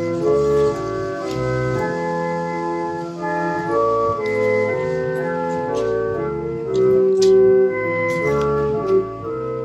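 Organ playing a hymn tune in sustained chords, the notes held steady and changing together every half second to a second.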